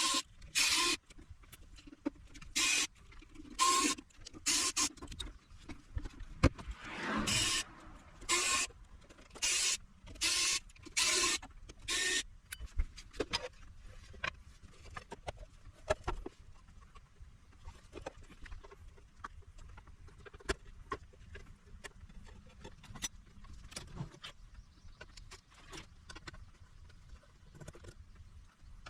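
Short whirring bursts of a small electric motor, typical of a cordless electric screwdriver backing screws out of the inverter's case, about a dozen in the first twelve seconds. Then only faint clicks and ticks of parts being handled.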